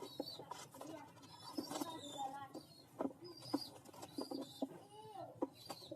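Pigeons calling in short, wavering coos and higher calls, with scattered sharp clicks and taps.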